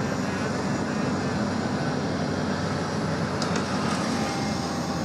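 Heavy diesel engine running steadily, a low, even drone, with a brief light click about three and a half seconds in.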